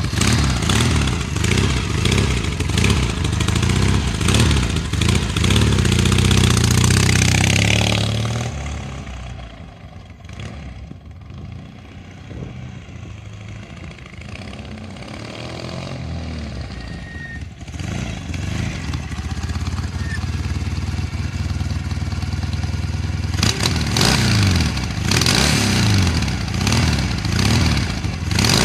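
Norton Commando 850 parallel-twin engine in a Norton Dominator, warming up after a cold start: revved up and down, settling to a quieter idle about nine seconds in, then blipped up and down again over the last few seconds.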